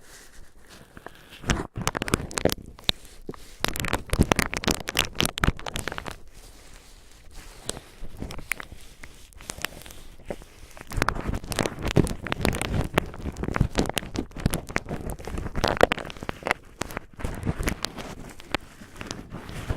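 Cotton swabs being crinkled and rubbed close up, giving dense, irregular crackling and rustling that swells and eases in clusters.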